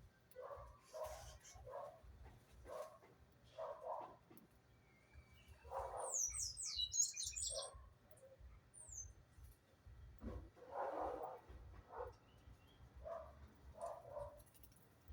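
Repeated short animal calls, a few each second with gaps, with a brief flurry of high, quick small-bird chirps about six seconds in.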